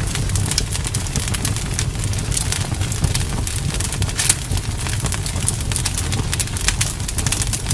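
Campfire burning, wood crackling and popping in quick irregular snaps over a steady low rumble of flame, with one louder pop about four seconds in.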